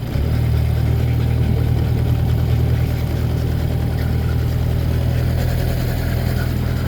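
A boat's big outboard motor is throttled up right at the start, then runs steadily with a low, even engine tone.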